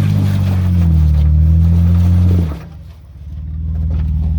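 Off-road Jeep Wrangler engine revving hard under load, its pitch wavering, while the tyres spin and dig into mud. About two and a half seconds in, the throttle is let off suddenly and it drops to a lower, pulsing rumble that builds up again.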